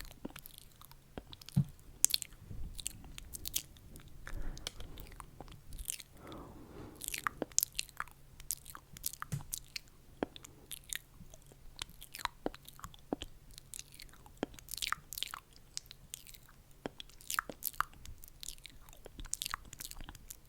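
Close-miked ASMR mouth sounds: a rapid, irregular run of small wet clicks and smacks.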